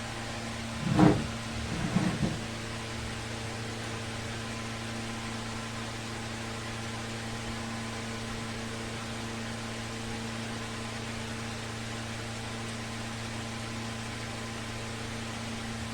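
Ceiling fan motor running with a steady hum and hiss. Two short, louder sounds come about one and two seconds in.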